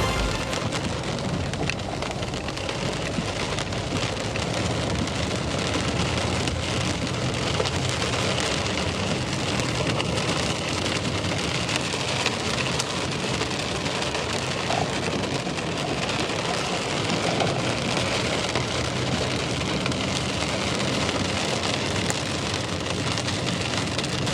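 Heavy rain pouring steadily, with many sharp individual ticks of drops striking a hard surface.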